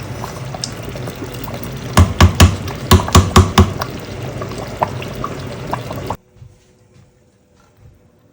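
Qurma sabzi herb stew bubbling in its pot, with a quick run of sharp clicks about two to three and a half seconds in. The sound cuts off abruptly about six seconds in.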